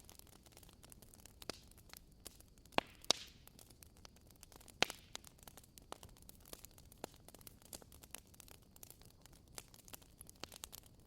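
Burning firewood crackling: irregular small pops and snaps over a faint hiss, with a few louder snaps about three and five seconds in.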